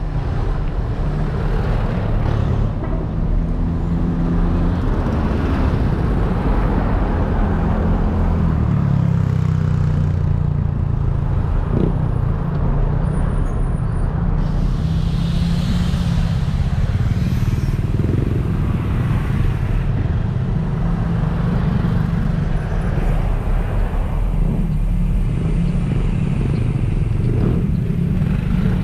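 Steady road noise on the move: a continuous low rumble of wind and vehicle noise.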